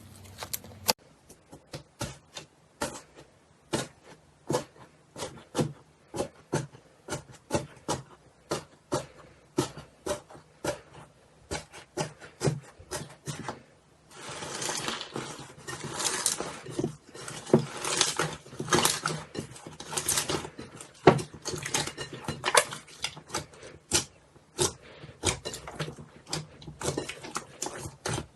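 Slime being squeezed and worked by hand, making sticky clicks and pops a few times a second, which turn into denser crackling about halfway through.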